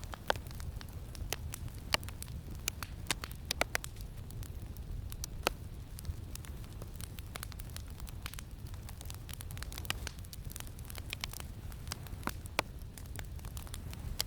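Campfire crackling, with irregular sharp pops and snaps, over a steady low rumble of wind.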